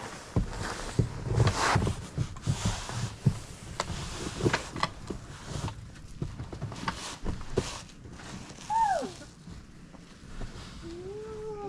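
Footsteps crunching through snow with scattered knocks and bumps for most of the stretch, then a short falling vocal cry and a couple of rising-and-falling vocal sounds near the end.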